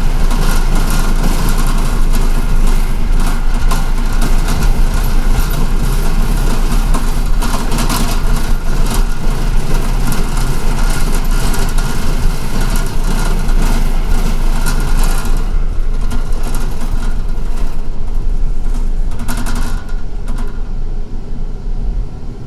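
MTA city bus under way, heard from inside the cabin: a steady low engine drone with constant rattling and road hiss. The high hiss and rattle die down about two-thirds of the way through, and the whole sound grows quieter near the end.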